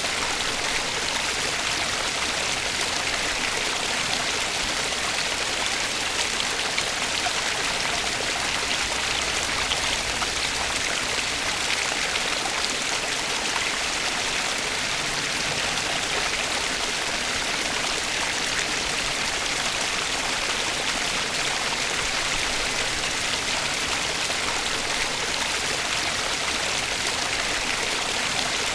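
Flowing stream water, a steady, even rush without pauses.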